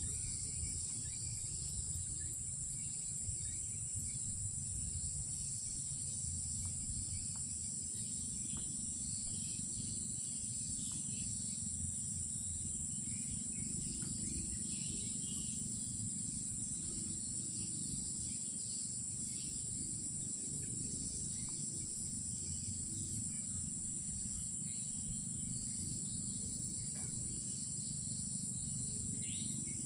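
Night insects calling in a continuous high-pitched drone, with scattered fainter chirps, over a low steady rumble.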